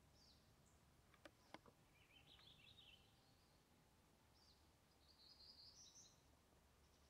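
Near silence with faint songbirds: a few short falling chirps and two brief bursts of high twittering. Two sharp clicks a little over a second in.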